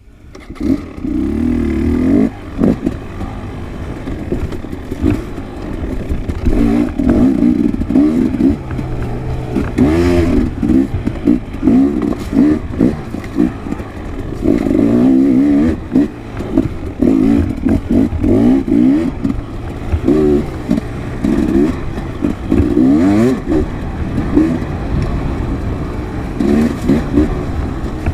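Enduro dirt bike engine revving up and down as it is ridden off-road, its pitch rising and falling with the throttle, mixed with clattering knocks from the bike over rough ground.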